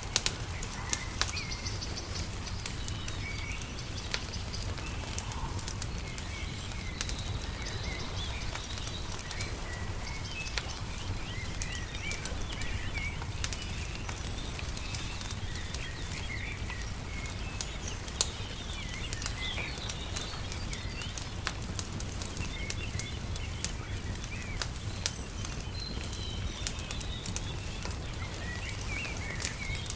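Layered nature and campfire ambience: small birds chirping and calling throughout, over a steady low rumble, with sharp crackles and pops of a burning wood fire scattered through. One pop, past the middle, is louder than the rest.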